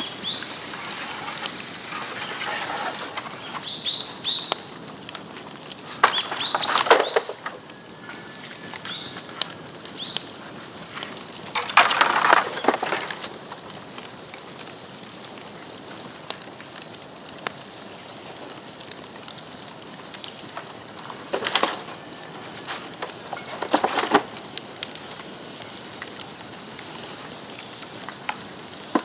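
Bamboo burning in a bonfire: a steady light crackle broken by four louder bursts of popping and crackling, each about a second long, with a thin high whistle through much of it.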